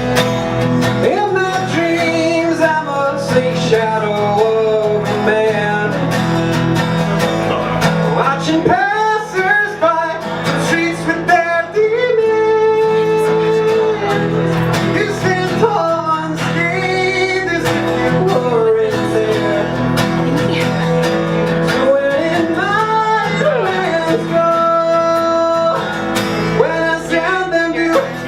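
A solo singer performing a song over guitar accompaniment.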